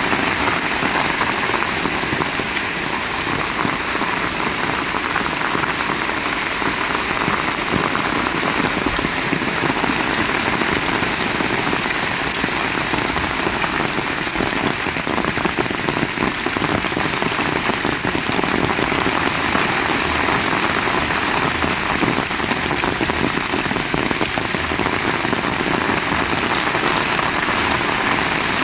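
Heavy rain falling steadily and evenly, a dense wash of drops on surfaces.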